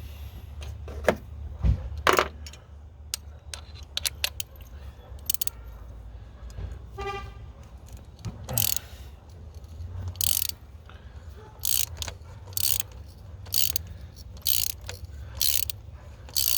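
Hand ratchet clicking in short rasping strokes, about one a second in the second half, as it turns a spark plug socket to unscrew an old spark plug from a 2.4 L four-cylinder engine. Before that come scattered clicks and knocks of tools on metal.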